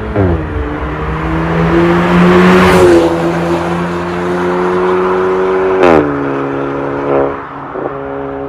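Hyundai Tucson 1.6T's turbocharged four-cylinder engine running through an MS-R valved cat-back exhaust, pulling under load. The engine note drops sharply at the start and again about six seconds in, as it shifts up a gear.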